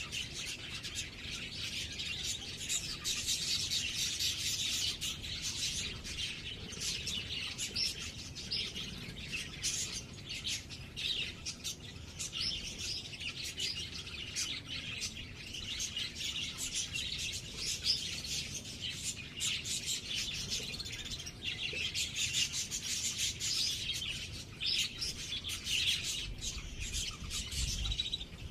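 Small birds chirping and tweeting without pause, many short high calls overlapping.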